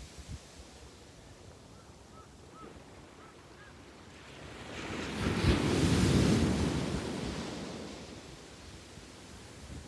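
Sea waves on a sandy beach: a low steady surf, then one wave breaks and washes in, swelling about four seconds in, loudest around the middle, and fading back down.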